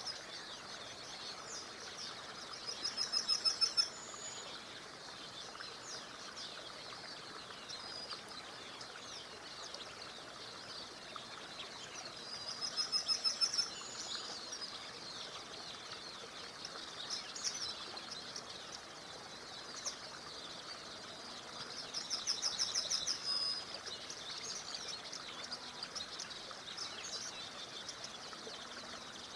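Wild birds singing over a steady background hiss of a small river. One songbird sings a short trill of rapid repeated notes three times, about ten seconds apart, while other birds keep up a running chatter of high chirps.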